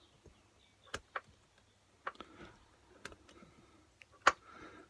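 Scattered light metallic clicks and taps as lifters are worked out of a Vauxhall Astra 1.6 cylinder head by hand and set down, five or so separate clicks with the loudest about four seconds in.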